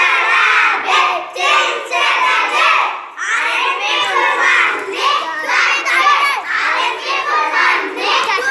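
A group of children reciting a poem together in unison, in a loud rhythmic chant.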